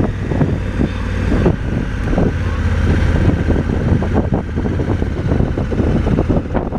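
Motorcycle engine running steadily while riding a dirt road, with many short knocks and rattles from the rough surface.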